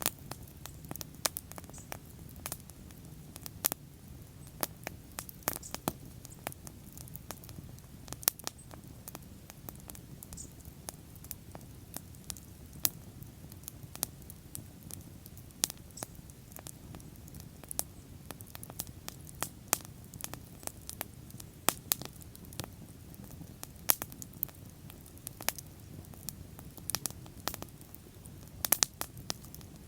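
Bonfire burning, with irregular sharp crackles and pops of the burning wood, at times several a second, over a low steady rumble of the flames.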